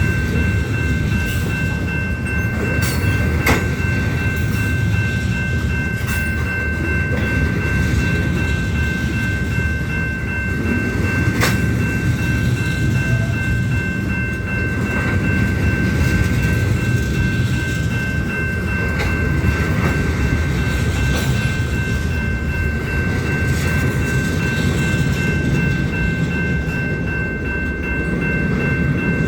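Union Pacific freight train's cars rolling past: a steady low rumble of wheels on rail with a few sharp clanks, and a steady high squeal held throughout.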